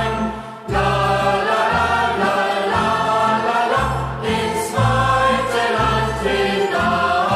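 A youth choir singing a German hiking song in unison, over a steady low bass part that changes note about every half second to a second.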